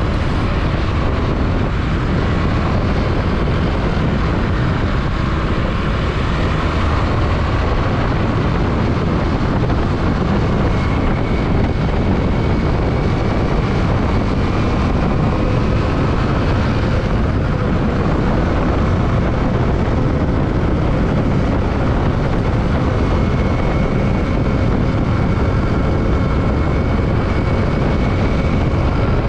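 Yamaha WR155R motorcycle's single-cylinder engine running at a steady cruise under heavy wind and road noise on the microphone. Its pitch drifts slowly with road speed.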